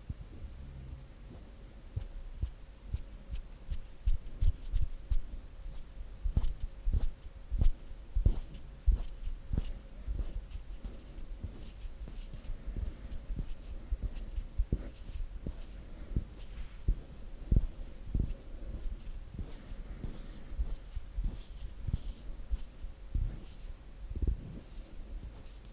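Bare hands rubbing together and fingers tapping, close to the microphone: irregular soft thuds with dry, papery skin-on-skin swishes, at a slow, uneven pace. A faint steady hum runs underneath.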